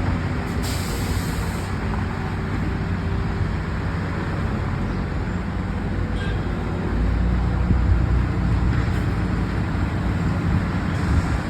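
Heavy road-works machinery milling off asphalt, running steadily with a low rumble that grows louder about seven seconds in; a short hiss about a second in.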